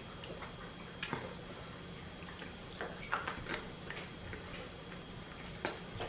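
Close-up eating sounds: scattered crisp clicks and crunches of chewing a crunchy Doritos taco shell, with one sharp crack about a second in and a cluster of smaller ones around three seconds in.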